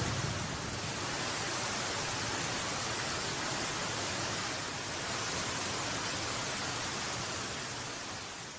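Steady, even rushing noise with no distinct pops or strokes, fading away at the very end.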